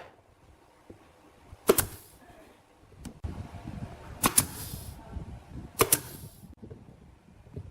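Three sharp shot-like strikes, the first on its own and the last two about one and a half seconds apart, each followed by a short hiss.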